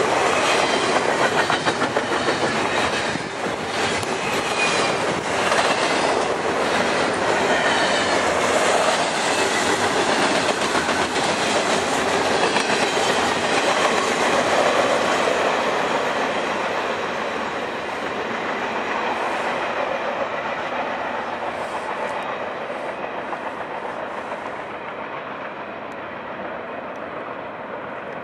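Double-stack intermodal container cars rolling past on steel rails, their wheels clattering over the rail joints. The sound gets quieter in the second half as the end of the freight train passes and moves away.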